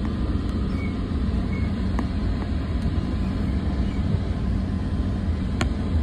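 Steady low rumble of a commuter train running, heard from inside a passenger car, with a few short sharp clicks, the loudest near the end.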